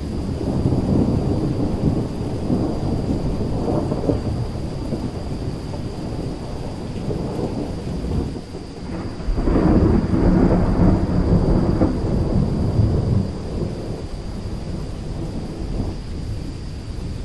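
Thunder rumbling in two long, deep rolls over steady rain. The second roll, starting about nine and a half seconds in, is the louder.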